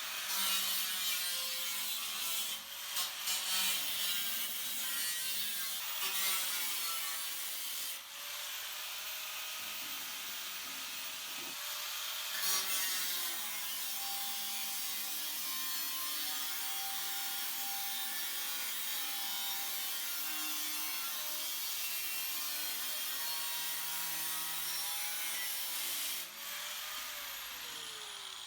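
A power tool cutting the sheet steel of an 18-litre can in one long steady cut. The motor speeds up at the start and winds down near the end.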